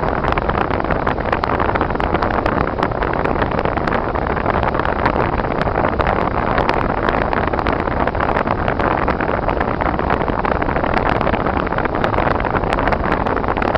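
A car driving on snowy, icy roads: a steady rush of road and wind noise with many small, irregular ticks running through it.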